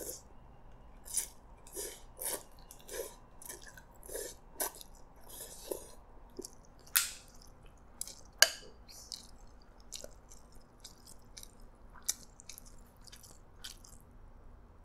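Close-mic chewing of soft, soggy noodles, an irregular string of short wet mouth sounds. Two sharper clicks stand out about halfway through.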